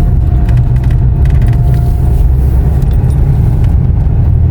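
Steady low road and engine noise inside a moving car, with small rattles and ticks from the cabin.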